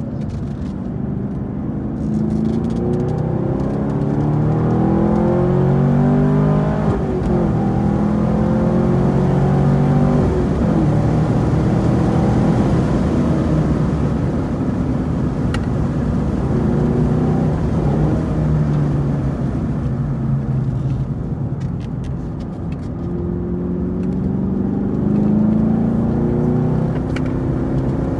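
Chevrolet Camaro SS 1LE's V8 engine under hard acceleration on track. It climbs in pitch and drops back twice in the first few seconds as it shifts up, runs steadier through the middle, then climbs again near the end.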